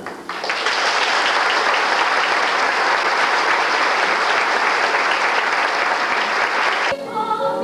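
Theatre audience applauding at the close of a sung number. The applause cuts off about seven seconds in as the orchestra begins playing.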